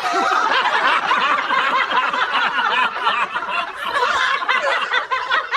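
Several people laughing at once, their voices overlapping steadily without a break.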